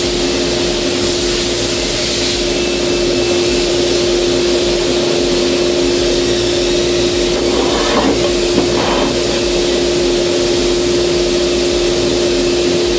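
Heavy machinery running steadily, a constant hum over a broad hiss.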